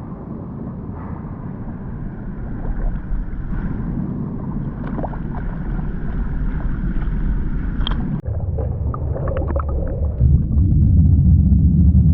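Washing machine running, its drum rumbling with water gurgling and sloshing inside. It slowly grows louder, drops out for a moment about eight seconds in, and is louder from about ten seconds in.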